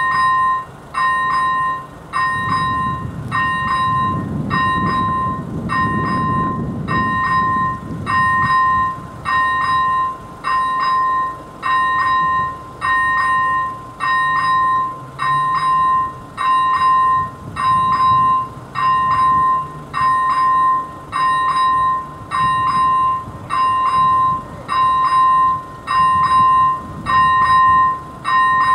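AŽD 97 level-crossing warning signal's first-generation electronic bell striking about once a second, each stroke a bright ringing tone that dies away quickly. A low rumble rises and falls beneath it a few seconds in and again around the middle.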